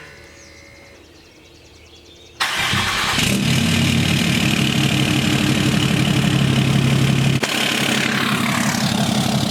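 A 6.7 Cummins inline-six turbodiesel engine starting about two and a half seconds in, then idling steadily.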